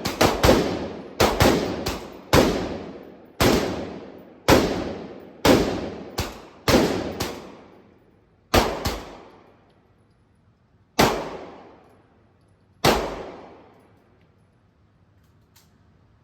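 Gunshots on an indoor shooting range, each followed by a long echoing tail. About a dozen come in quick, uneven succession, then they slow to three single shots a couple of seconds apart.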